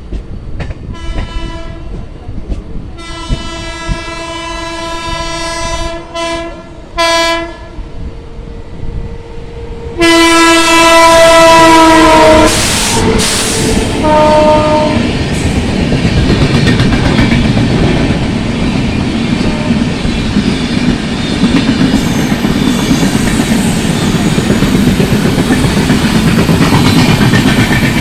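Indian Railways passenger train's locomotive horn sounding a series of blasts: a long one, a short one, then the loudest and longest about ten seconds in, and a final short toot. The train then rushes past at speed with a heavy rumble and the clickety-clack of wheels over rail joints.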